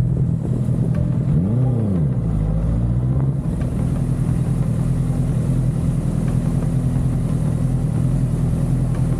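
Motorcycle engine under way: it revs up and back down once about one and a half seconds in, then holds a steady note at constant speed. A steady hiss joins it about three and a half seconds in.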